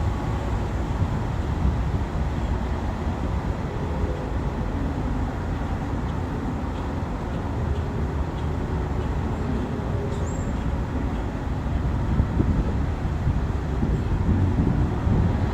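Steady low rumble of vehicle noise, even throughout, with no distinct events.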